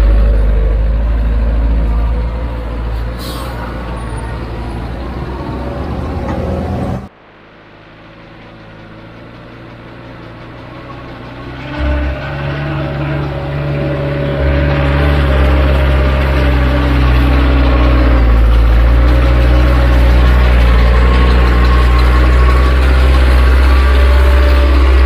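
Heavy construction machine engines running. The sound cuts off suddenly about seven seconds in; a second machine's engine then comes in quietly, grows louder about halfway through, and runs steadily with a strong low hum.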